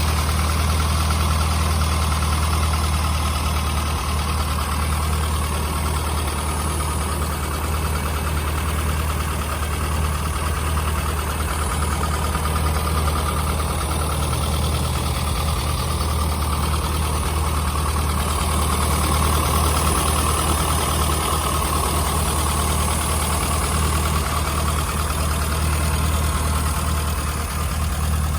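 1995 Rover Mini Cooper's 1275 cc A-series four-cylinder engine idling steadily.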